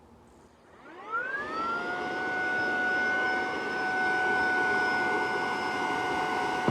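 Saker 3-in-1 cordless mini handheld vacuum with a brushless motor switching on about a second in. Its whine rises quickly in pitch as it spins up, then holds as a steady high-pitched whine with a rush of air.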